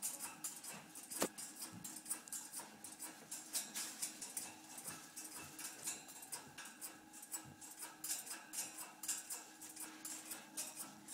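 African grey parrot working at its metal cage with its beak, making a fast, irregular run of clicks and rattles, with one sharper clack about a second in.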